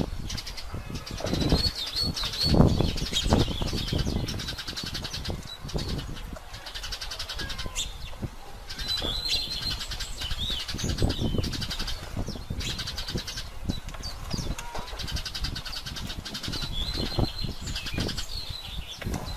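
Small birds chirping in short, high, bending calls again and again, over bursts of low rumbling noise, the loudest about two to three seconds in.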